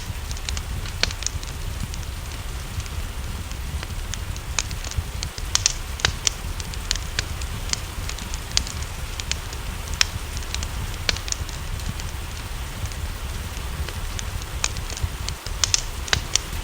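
Wood fire crackling in a fireplace, with irregular sharp snaps and a few louder pops. Underneath are a steady low rumble and the soft hiss of rain.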